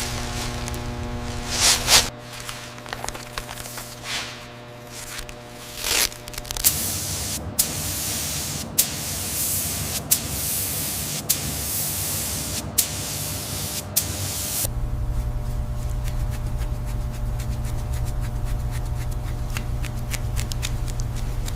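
Compressed-air spraying: a loud hiss in long bursts with brief breaks about every second and a half, as in spraying on a coat during paint prep. Before it there are a few short whooshes over a steady hum. After it comes a steady low hum with rapid faint ticking.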